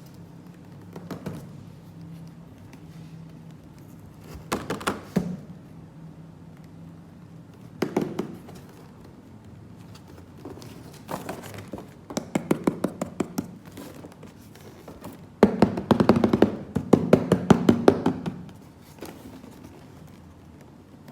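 Hands handling plastic toy pieces: scattered taps and knocks in short groups, then a longer run of rapid clicking taps for a few seconds near the end.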